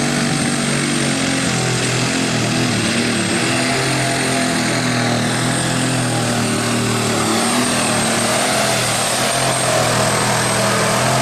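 Super stock pulling tractor's turbocharged engine running flat out under load, with a steady high turbo whistle over the engine note.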